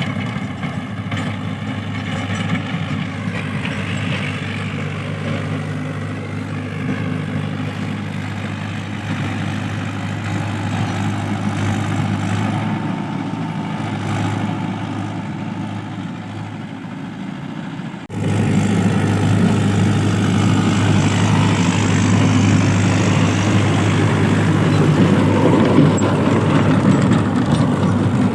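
Diesel engine of a Mahindra Yuvo Tech+ 585 DI 4x4 tractor running steadily, pulling a rotavator. About two-thirds of the way through the sound turns suddenly louder.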